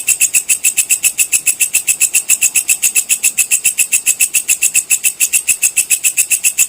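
Walang kecek (belalang kecek) insect calling in a fast, even train of sharp high-pitched chirps, about seven a second, recorded as masteran for training songbirds such as lovebirds and magpie robins.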